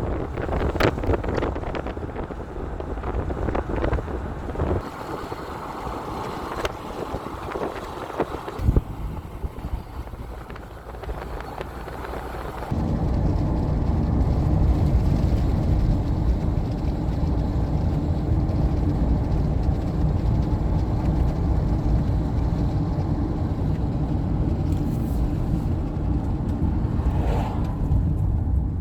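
Wind buffeting the microphone with a few knocks, then about thirteen seconds in a steady low rumble of a car driving sets in.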